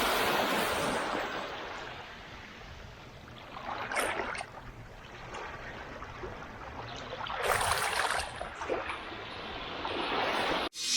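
Small waves washing onto a sandy beach, the surf swelling and falling back three times. The sound cuts off abruptly just before the end.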